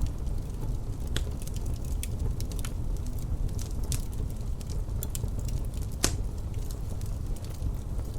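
Wood fire crackling in a fireplace: irregular sharp pops and snaps, with one louder pop about six seconds in. Under it runs a steady low rumble of wind.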